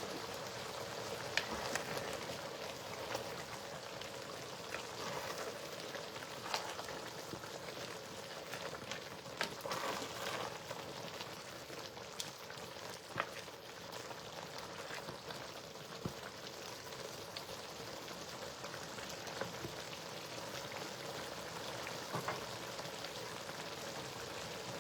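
A pot of spinach stew sizzling on the stove: a steady crackling hiss with scattered small pops.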